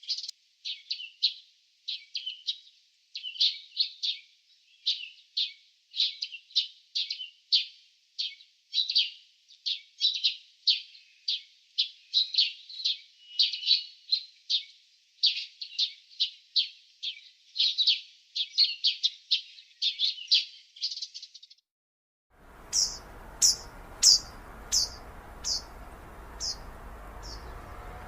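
Small birds chirping in a fast, dense run of short high chirps. About 22 seconds in, the sound switches to a different recording with a steady background hiss and a slower string of sharper, higher chirps.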